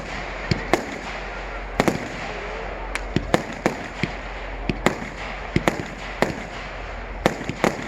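Fireworks going off: a run of sharp, irregular bangs and cracks, sometimes several a second, over a steady background rumble.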